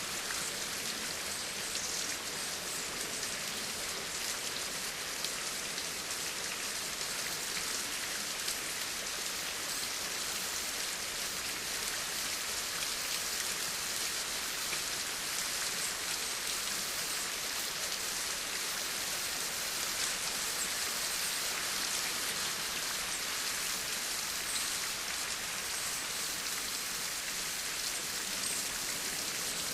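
Steady rain falling, a dense hiss of many small drop ticks on a surface.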